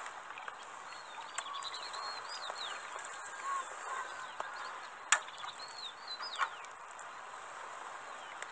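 Small birds chirping over and over, each call a short high note that bends in pitch. A sharp click sounds about five seconds in.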